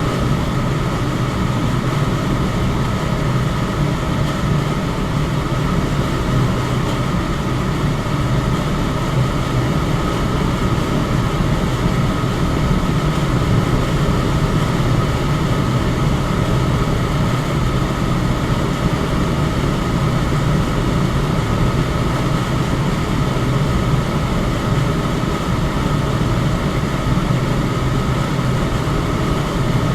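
Electric fan running steadily: an even rush of moving air with a low hum and a faint steady high whine.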